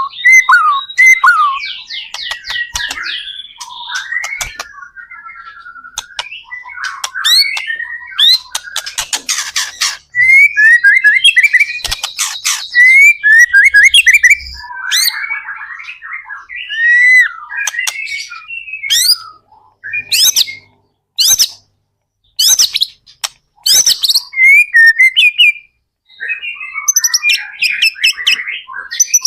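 White-rumped shama in full song: a loud, varied stream of rich whistles, quick trilled runs and sharp clicking notes, broken by brief pauses.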